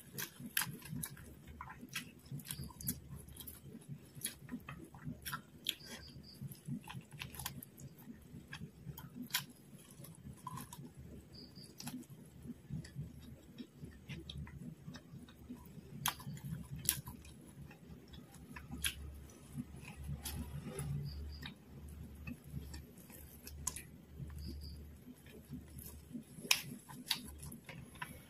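Close-miked eating sounds of a person chewing fried quail and biryani rice eaten by hand: irregular wet mouth clicks and smacks, with the fingers pulling at the meat, over a faint low hum.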